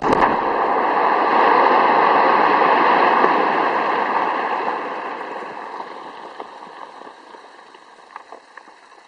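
Blasted rock mass in a quarry collapsing and settling after the charge goes off: a long, loud rushing noise, steady for about four seconds, then slowly dying away, with a few faint sharp cracks near the end.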